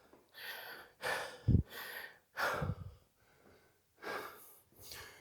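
A man breathing hard, panting in heavy breaths between exercises of a high-intensity workout. A short dull thump about a second and a half in.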